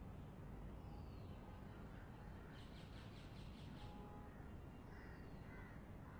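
Birds calling in a garden: short falling calls every couple of seconds, and a quick chattering run of about seven notes around the middle, over a faint steady hiss.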